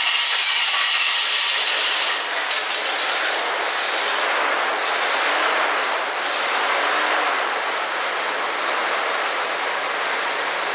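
1965 Ford Galaxie 500's V8 being cranked over by the starter without catching. It won't fire because almost no fuel is reaching it: the fuel filter is basically dry.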